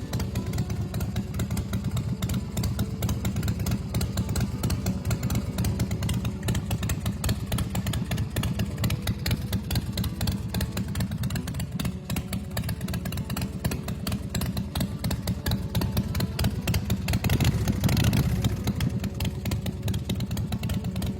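Custom chopper's 111-cubic-inch S&S V-twin engine idling with a fast, steady exhaust beat, revved briefly near the end.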